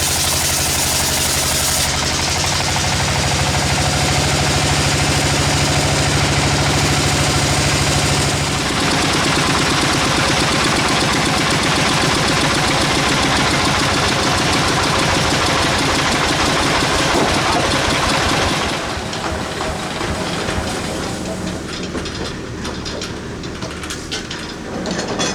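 Sawmill machinery running on an engine, steady and loud. Its sound changes about two seconds in and again about eight seconds in, then drops to a quieter, thinner run about nineteen seconds in.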